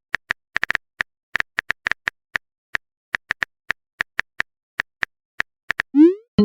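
Smartphone keyboard typing sound effect: a quick, uneven run of short tapping clicks, about four or five a second.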